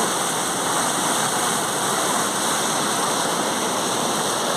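Steady rush of floodwater, an even noise without breaks.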